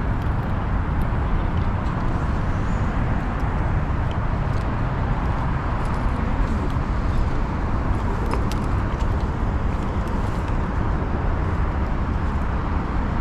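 Steady outdoor street noise of car traffic, with a constant low rumble and no single event standing out.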